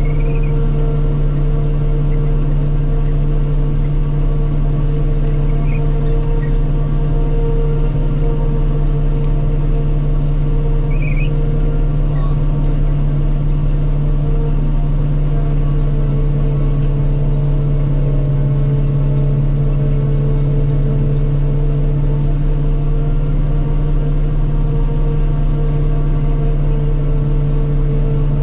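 Self-propelled forage harvester running steadily while chopping corn: an even engine and machinery drone with a strong low hum, heard from the operator's cab. A couple of faint short high squeaks come through about 6 and 11 seconds in.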